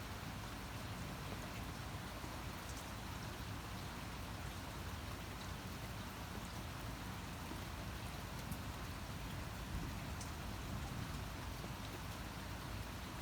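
Steady rain falling, an even hiss with a few single drops ticking out now and then.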